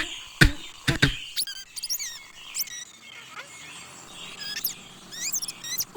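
A few sharp knocks in the first second, then small birds chirping: many short, quick, sweeping high calls.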